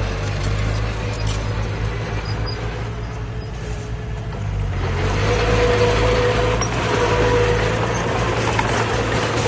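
Diesel engine of heavy earthmoving machinery running steadily, louder from about halfway through.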